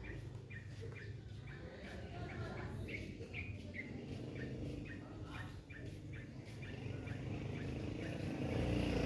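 A bulbul calling in a run of short, repeated chirps, about two a second. A low vehicle rumble underneath grows louder near the end.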